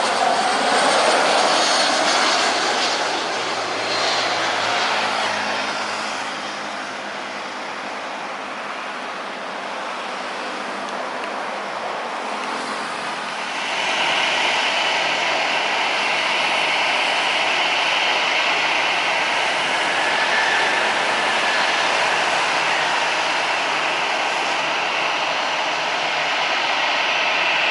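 Jet airliner engine noise. A loud pass at the start fades over the first several seconds; about halfway through, a steady, louder rushing with a high hiss sets in abruptly and holds.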